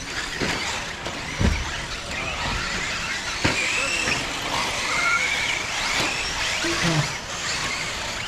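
Radio-controlled off-road racing cars running on a dirt track: a high-pitched whine that rises and falls over a steady noisy rush, with two sharp thumps in the first few seconds.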